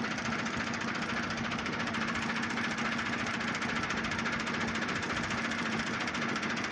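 Massey Ferguson 385 tractor's diesel engine running steadily with a rapid, even clatter and a constant hum.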